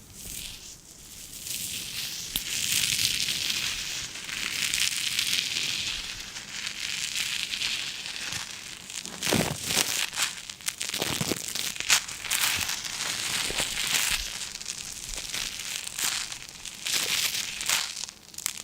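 Crinkling and crackling of a material being handled close to the microphone: a rough hiss for the first few seconds, then a run of sharp crackles and clicks from about halfway through.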